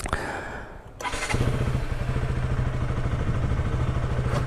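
Motorcycle engine comes on suddenly about a second in and then runs steadily.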